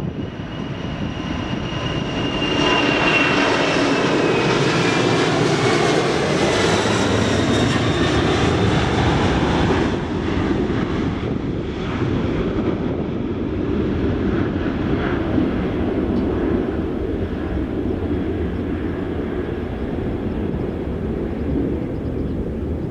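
An airliner passing close by. The engines' high whine glides down in pitch over a heavy rushing rumble, which is loudest a few seconds in and then eases into a steady, fading roar.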